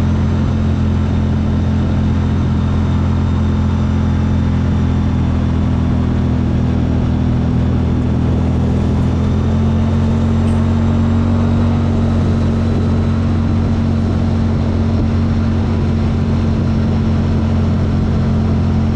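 CFMoto engine running at a steady, constant speed: an even, low drone with a slight change of pitch about halfway through.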